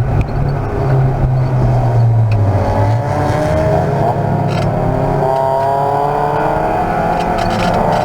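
Race car engine running hard, with a deep drone for the first few seconds, then its note climbing steadily as it accelerates.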